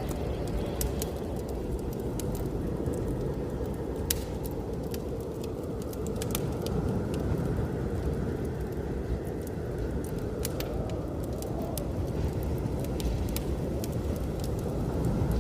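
Steady low rumble of blizzard wind, with a wood fire crackling over it in scattered sharp pops and snaps.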